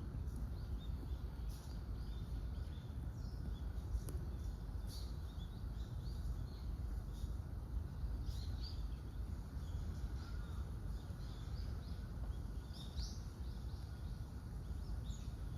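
Outdoor park ambience: a steady low background rumble with short, scattered bird chirps, about half a dozen spread over the stretch.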